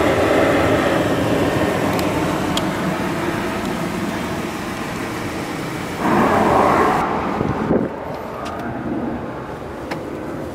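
2012 Subaru Legacy 2.5-litre flat-four boxer engine running at the exhaust while being revved. It eases down over the first several seconds, surges briefly louder about six seconds in, then settles quieter.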